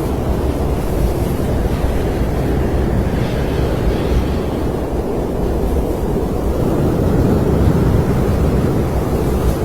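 Snowstorm wind blowing steadily, a deep rushing noise that swells slightly toward the end.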